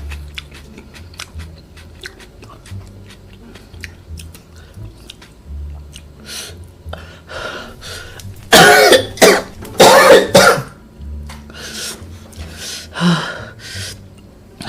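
A person coughing hard in a fit of several loud coughs with throat clearing, set off by very spicy food. Faint eating clicks come first, and the loudest coughs come close together about two-thirds of the way through.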